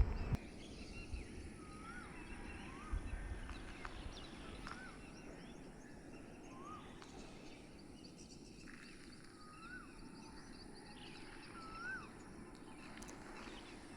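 Asian koel calling: a few short notes that rise and fall, spaced irregularly, with other small birds chirping faintly over low outdoor background noise.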